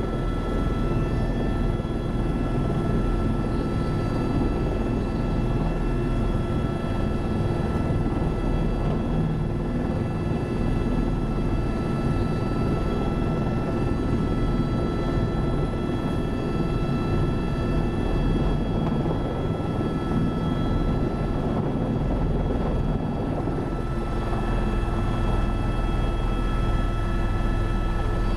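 Helicopter in steady flight: a constant low rotor and engine rumble with a steady high whine on top.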